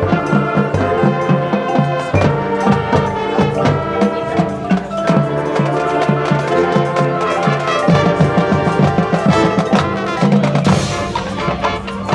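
A high school marching band playing its field show: brass chords over a steady beat from the drum line and mallet percussion.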